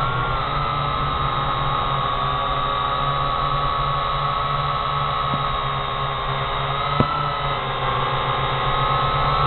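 Quadcopter drone's propellers whirring steadily in flight, with a constant high whine. A single short pop comes about seven seconds in.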